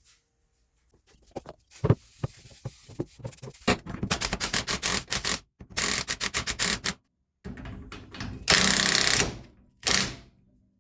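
Hand-tool work on metal: several runs of rapid, even mechanical clicking, then a louder rasping burst of under a second near the end and a short one after it.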